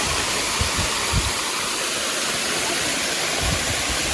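Waterfall rushing steadily, a dense even roar of falling water, with a few low thumps of wind on the microphone.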